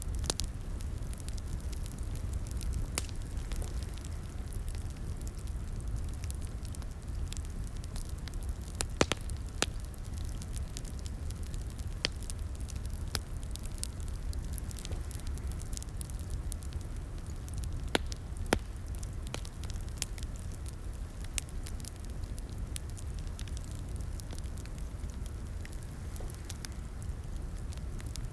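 Wood fire in a fireplace crackling, with a steady low rumble of flames under irregular sharp pops and snaps, a few of them louder.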